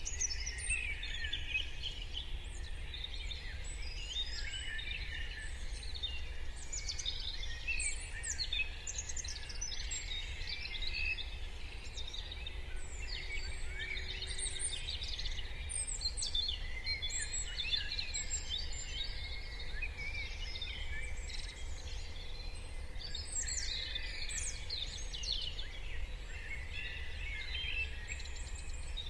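Morning chorus of many songbirds: overlapping chirps, trills and short songs with no break, over a steady low rumble.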